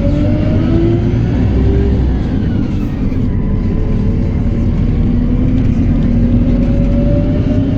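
PAZ-320405-04 Vector Next city bus's diesel engine pulling under load as the bus accelerates, its pitch rising, breaking off about two seconds in for a gear change, then climbing again, heard from on board.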